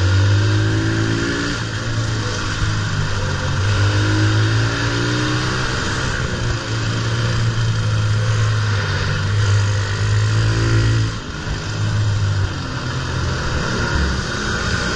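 Pit bike engine running under way, its pitch climbing several times and dropping back as it accelerates, with a short dip in level about eleven seconds in.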